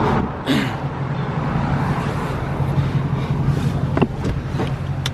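Vehicle engine idling steadily, with a sharp click about four seconds in.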